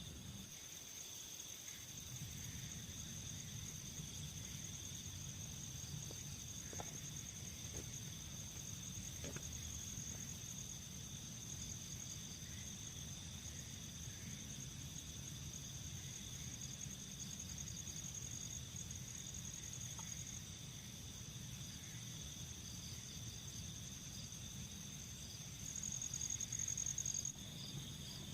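Insects trilling in a steady, high-pitched chorus over a low, even rumble; one of them grows louder for a moment near the end.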